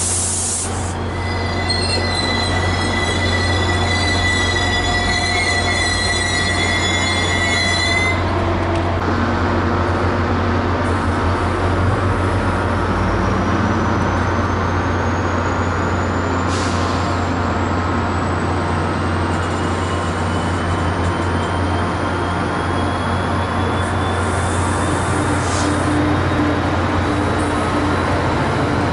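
NJ Transit commuter train's coaches rolling past at close range: a steady rumble of wheels on rail, with high-pitched wheel squeal over the first eight seconds or so. Later a faint whine rises slowly in pitch over the running noise.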